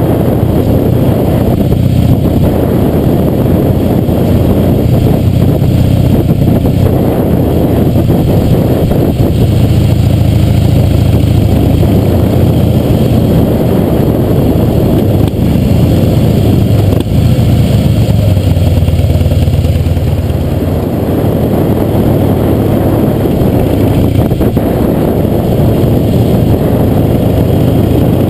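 Harley-Davidson V-twin engine running as the motorcycle rides along, heard from a camera on the front fender. Its note rises and falls with the throttle a few times.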